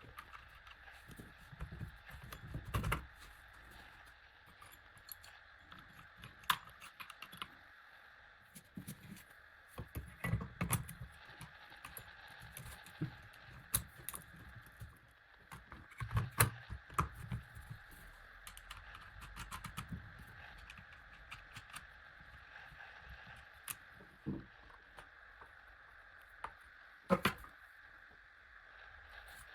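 Packaging and parts being handled: scattered clicks, knocks and rustles, with a few duller thumps, over a steady faint hiss.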